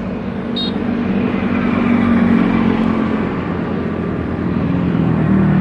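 Jet airliner's engines running loud as the aircraft passes close by, a steady noise whose low engine tones slide slowly lower and grow louder near the end.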